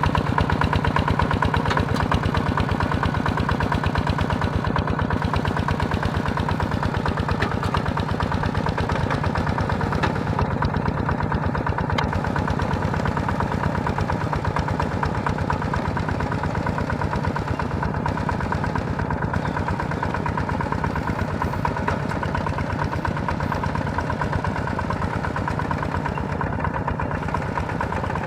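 Engine of a small plowing tractor running steadily, with a fast, even chugging pulse and no change in speed.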